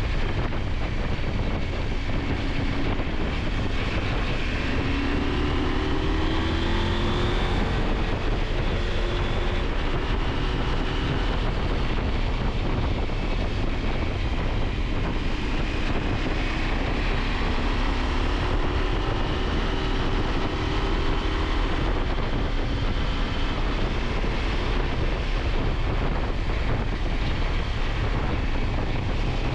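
KTM 890 Adventure's parallel-twin engine running while riding, its pitch rising and falling gently with the throttle, under a steady rush of wind on the microphone.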